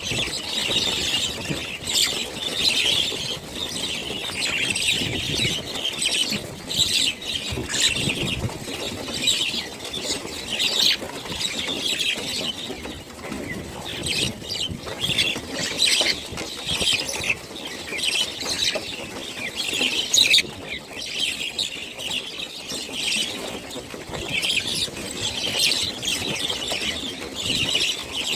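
A flock of birds chattering: many overlapping high-pitched calls and chirps in a dense, continuous din.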